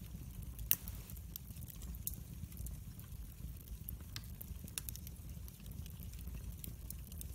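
Wood fire burning in a fireplace: a steady low rumble of the flames with irregular sharp crackles and pops, the loudest pop just under a second in.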